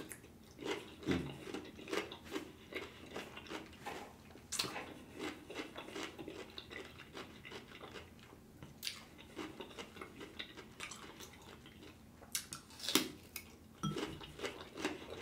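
Close-miked crunching and chewing of a raw cucumber spear: a bite, then many small crisp crunches and wet mouth sounds, with a few louder crunches.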